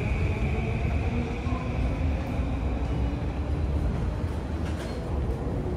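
Electric commuter train running through the station: a steady low rumble with a high-pitched whine that fades away over the first few seconds.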